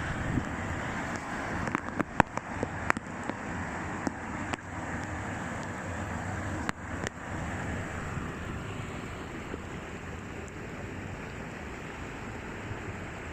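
Fast-flowing floodwater rushing steadily, with a few sharp knocks and clicks in the first half.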